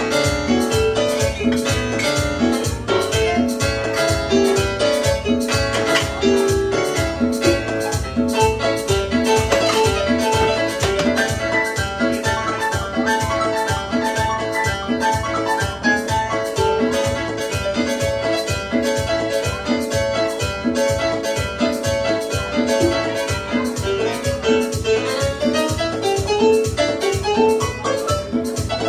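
A live cumbia band playing: an electronic keyboard carries the melody over a steady drum-kit beat.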